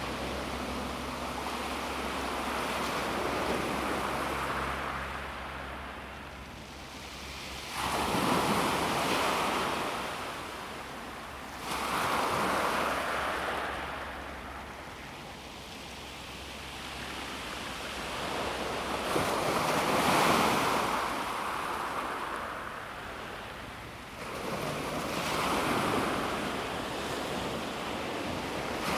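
Calm sea waves breaking on a pebble beach: each wave comes in with a sudden surge, about four times, then washes back and fades. Wind rumbles on the microphone throughout.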